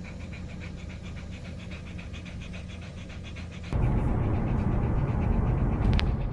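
Small dog panting in a fast, even rhythm. A little past halfway, a loud low rumble comes in suddenly and runs on.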